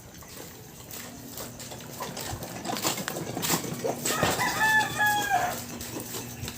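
A rooster crowing once, a pitched call of about a second about four seconds in.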